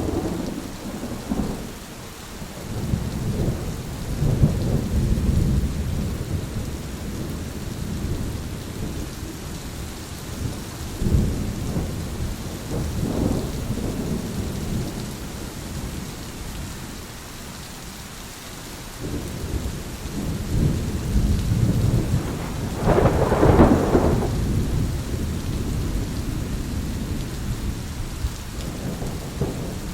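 Thunderstorm: steady rain falling, with rolling thunder rumbling on and off throughout and a louder, sharper peal about two-thirds of the way through.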